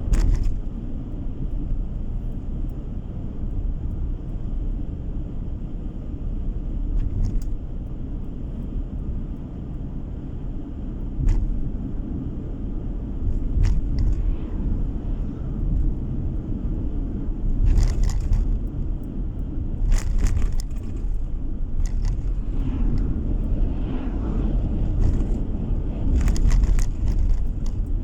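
Car driving along a road: a steady low rumble of tyres and engine, with a scattering of short sharp clicks or knocks.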